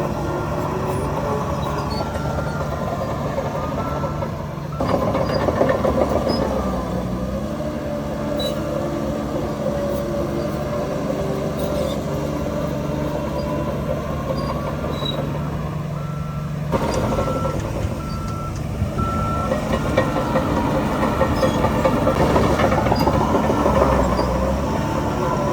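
Diesel engines of heavy earthmoving machinery, a bulldozer and dump trucks, running steadily. A reversing alarm sounds a row of short, evenly spaced beeps twice: once near the start and again about two-thirds of the way through.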